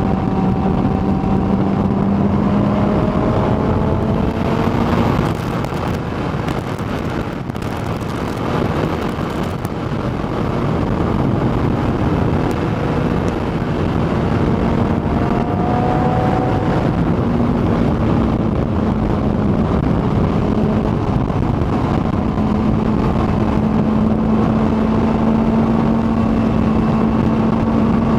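Kawasaki ZX-14R's inline-four engine running at a steady cruising speed, with wind rushing over the microphone. The engine note eases off briefly a few seconds in, then settles back to a steady pitch.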